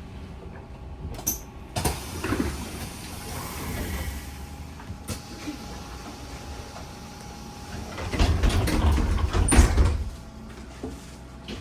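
Passenger doors of a VMZ Avangard trolleybus working at a stop, heard inside the cabin: scattered clicks and knocks over a steady rumble, with a louder rumbling, knocking stretch about eight seconds in.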